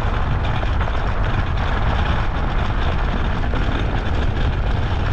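Steady wind rush on the action-camera microphone over the rumble of an off-road luge cart rolling down a dusty dirt track.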